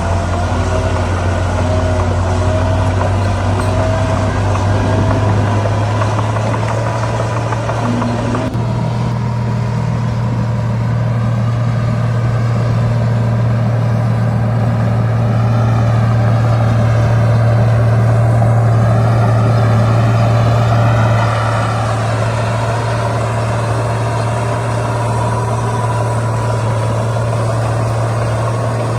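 Heavy diesel engine of earthmoving machinery running steadily under load. It gets louder about halfway through and eases back down after about 21 seconds.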